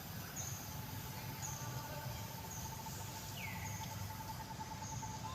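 Outdoor ambience: a steady background of noise and low rumble, with short high chirps repeating about once a second and a single brief falling call a little past the middle.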